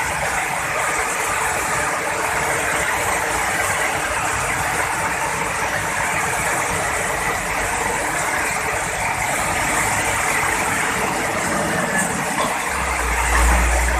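Heavy rain falling steadily in a thunderstorm. Near the end a deep rumble of thunder sets in.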